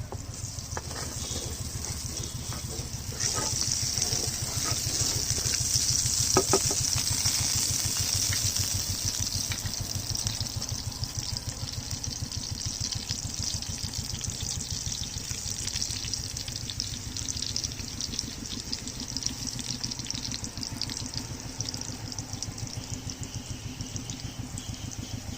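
Coconut fritters sizzling and crackling in hot oil. The sizzle jumps up about three seconds in and then slowly dies down, over a steady low throb.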